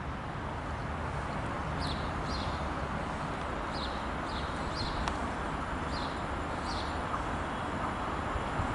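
Steady outdoor background rumble with a small bird giving short, high, falling chirps, several times from about two seconds in.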